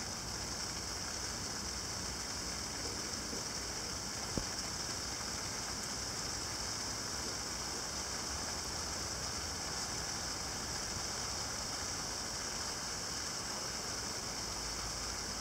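Steady rain falling, an even hiss, with a single tick about four seconds in.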